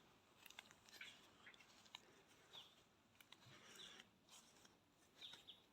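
Near silence, with faint scattered clicks and a few brief high chirps.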